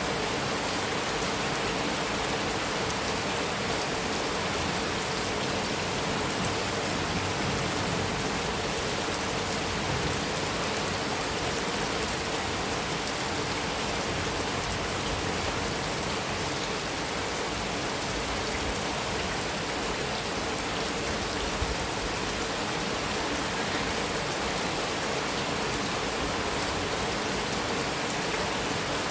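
Heavy rain falling steadily on a metal roof, an even, unbroken hiss of rainfall.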